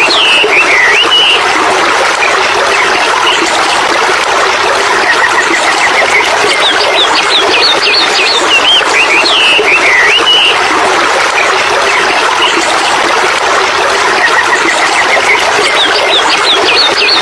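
Birds chirping in short bursts of quick notes every few seconds over a loud, steady rushing noise.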